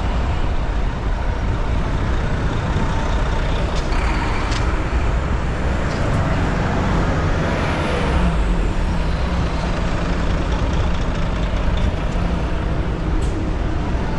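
City street traffic and wind noise heard from a moving bicycle, a steady rushing heaviest in the low end, with a large vehicle such as a truck or bus humming alongside for several seconds in the middle.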